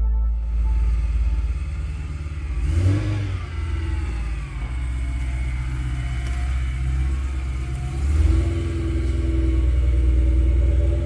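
BMW Motorsport P65 4.4-litre V8 running in the 1M, idling with two brief throttle blips, one about three seconds in and one about eight seconds in.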